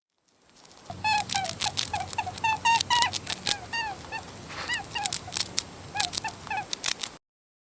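A rapid series of short, squeaky animal calls, about three a second, each rising then falling in pitch, mixed with clicks; the sound cuts off suddenly near the end.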